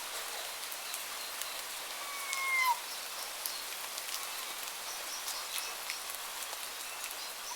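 A bird gives one clear whistled note about two seconds in, held and then dropping in pitch at the end. Behind it runs a steady hiss of rain, with scattered light drips.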